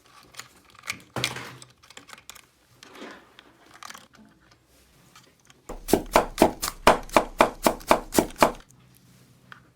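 Small plastic toy pieces being handled, with scattered clicks and rustles, then a quick run of about a dozen sharp clicks, about four a second, lasting some three seconds.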